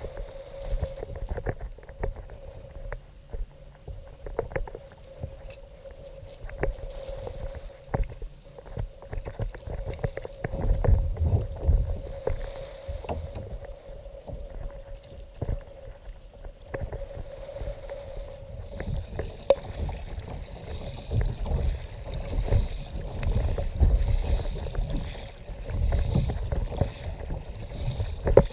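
Water lapping and splashing around a fishing kayak, with scattered knocks against the hull and wind gusting on the microphone. A faint steady hum runs underneath, and the splashing grows busier in the last third.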